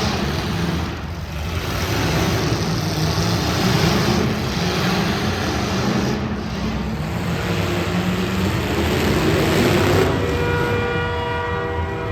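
Demolition derby cars' engines running and revving loudly. About ten seconds in, a steady horn-like tone starts up over them.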